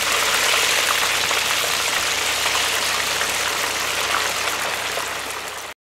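Raw plantain pieces deep-frying in hot oil: a steady sizzle full of fine crackles, which stops abruptly near the end.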